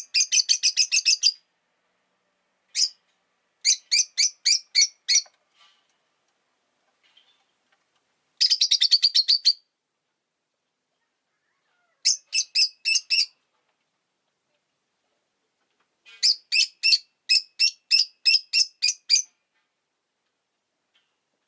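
Rosy-faced lovebird (Agapornis roseicollis) chirping: five bursts of rapid, shrill, evenly repeated chirps, about seven a second, each burst lasting one to three seconds with pauses of a few seconds between.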